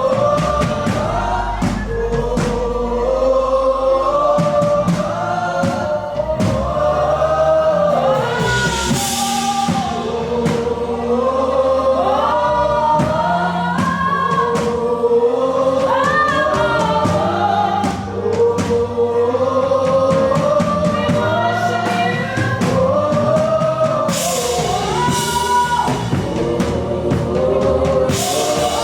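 Gospel worship song: several voices singing together as a choir over a band, with sustained low instrumental notes underneath.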